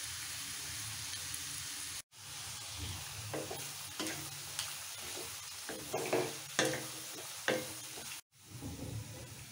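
Chopped onions, green chillies and curry leaves sizzling in hot oil in a kadai, stirred with a wooden spatula that scrapes across the pan in several short strokes from about three seconds in. The sound cuts out briefly twice.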